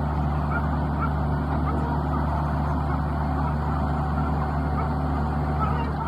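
An engine running steadily at constant speed, with faint short squeaks above it.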